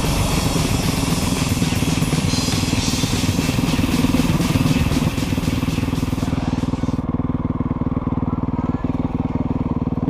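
Motocross motorcycle engine running steadily at a fairly constant pitch; about seven seconds in, the high hiss drops away and the sound becomes duller.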